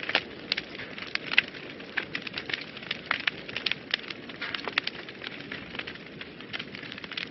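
Wood fire burning in a fireplace: steady low rushing of the flames with frequent, irregular sharp crackles and pops.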